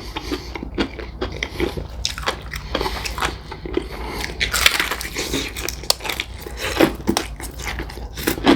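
Close-up crunching and chewing of extra crispy fried chicken. The breaded skin crackles sharply with each bite and chew.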